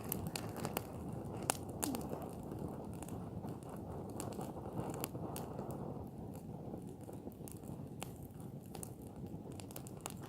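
Wood fire of fir branches burning, with scattered crackles and pops over a low, steady rush.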